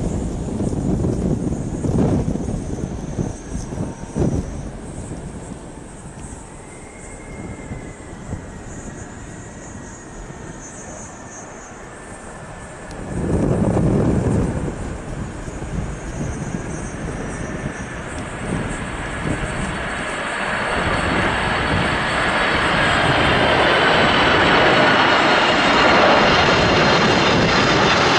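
Boeing 747 freighter on approach, the whine of its jet engines coming in and growing steadily louder over the second half. Before that, gusts of wind rumble and bump on the microphone.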